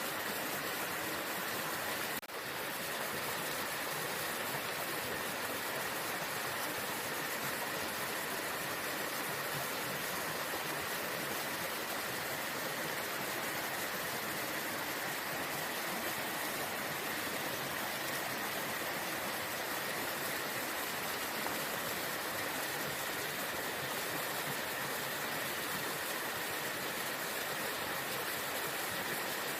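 Waterfall: water rushing in a steady, even roar, with one brief dip in level about two seconds in.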